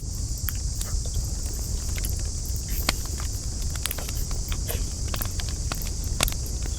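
Wood campfire crackling, with irregular sharp pops and snaps of varying loudness over a steady low rumble and a steady high hiss.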